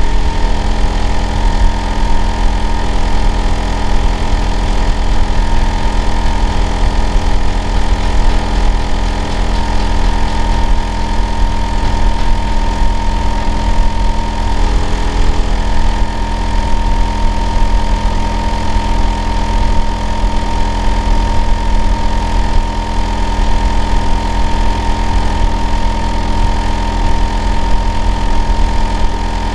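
Hitachi air-conditioner outdoor unit running steadily: a loud, constant low rumble with a steady hum and a thin, even whine above it.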